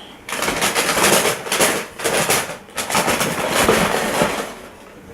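Paper packaging rustling and crinkling as a pair of sneakers is unwrapped from its shoe box: a busy run of crackles that starts just after the beginning and dies away near the end.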